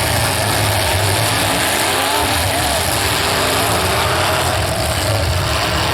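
Demolition derby cars' engines running loudly, with engines revving up and down over a steady low rumble.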